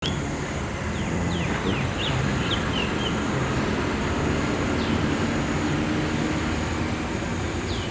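A steady low rumble of distant road traffic, while a bird gives a run of short, quick falling chirps in the first few seconds and two more later on.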